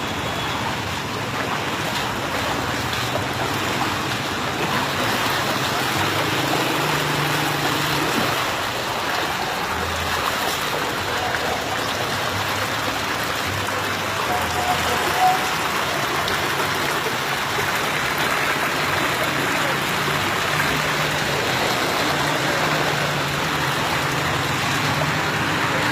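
Rain pouring down with running water: a steady, even rush of water noise that does not let up.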